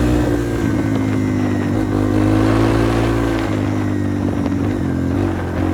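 Yamaha TT-R230 dirt bike's single-cylinder four-stroke engine running under way on a trail, its note holding fairly steady with a dip about three and a half seconds in and another shift near the end as the throttle changes.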